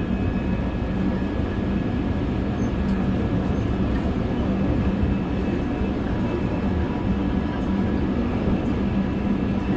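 Seoul Subway Line 1 electric train running steadily between stations: continuous rumble of wheels on rails with a low hum and faint steady whining tones.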